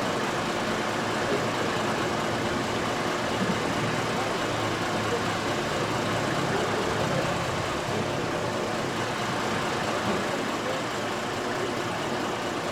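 A vehicle engine idling steadily, with people's voices in the background.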